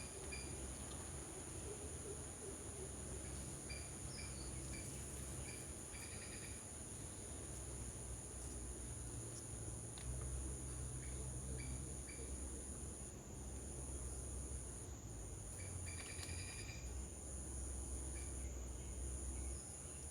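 Steady high-pitched drone of insects, made of two unbroken tones, with a few brief chirped calls here and there.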